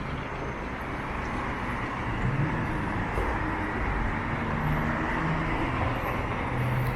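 Downtown street traffic: passing cars' engines and tyre noise, with a heavier vehicle's engine hum coming up about halfway through.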